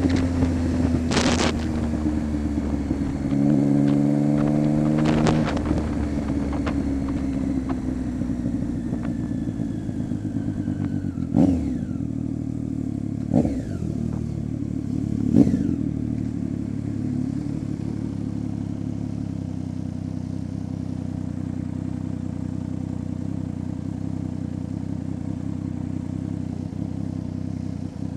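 Triumph Street Triple 675's three-cylinder engine running through an unbaffled Coffman's exhaust, with a short rise in revs about four seconds in and three sharp cracks about two seconds apart near the middle.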